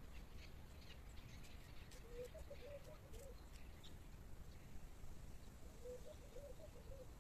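Faint birds calling: two low, warbling phrases about four seconds apart, each lasting about a second, with scattered high chirps in the first half.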